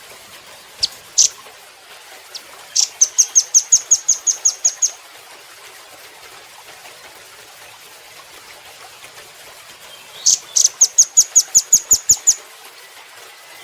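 Velvet-fronted nuthatch singing: two sharp high calls, then a fast, even trill of about a dozen high notes, five or six a second. After a pause of about five seconds it gives a second trill just like it, over a faint steady hiss.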